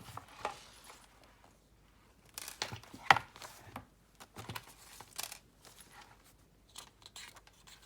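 Paper pages of a handmade junk journal being turned and handled: scattered rustles and crinkles, with one sharper snap of paper about three seconds in.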